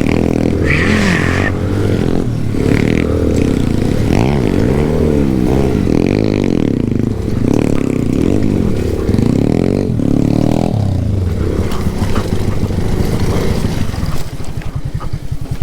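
Alpha moped's small single-cylinder four-stroke engine revving up and down over and over while riding rough ground. About fourteen seconds in it drops to a quieter, even low-speed beat.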